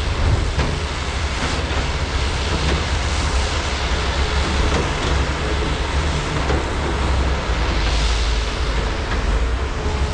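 Large hydraulic excavators' diesel engines running steadily under load with a deep rumble, with occasional short knocks and clanks from the digging and loading.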